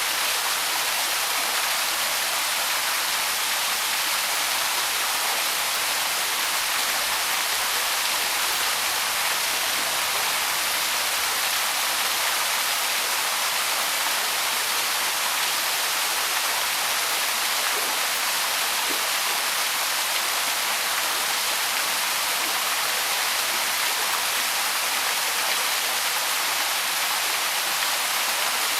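Small waterfall on the Loch in Central Park's North Woods: water pouring and splashing in a steady rush that doesn't change.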